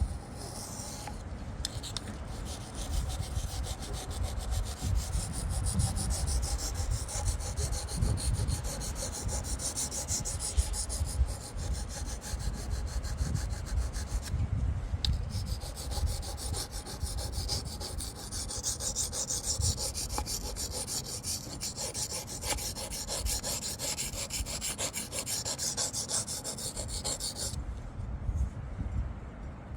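A knife blade being stroked back and forth on a Wästikivi sharpening stone: a steady run of quick scraping strokes. They pause briefly about halfway through and stop a couple of seconds before the end.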